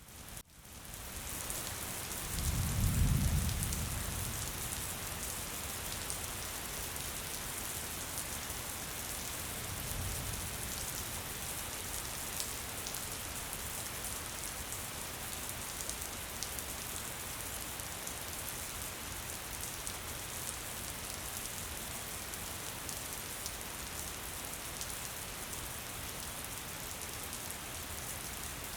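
Steady gentle rain, an even hiss with scattered drop ticks, fading in at the start. A low rumble swells about three seconds in, and a fainter one comes near ten seconds.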